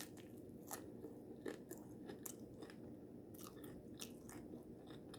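A person chewing crunchy food, with faint, irregular crunches scattered through the chewing.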